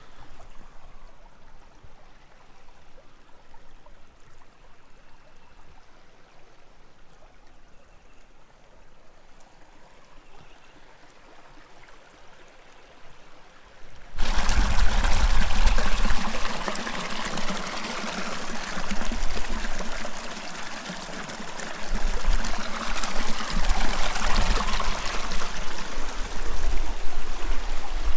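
Creek water running over rocks. It is faint at first, then abruptly much louder about halfway through.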